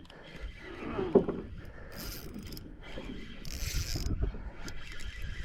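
Fishing reel being cranked, a whirring, ratcheting mechanism turning in uneven spells as the line is wound in.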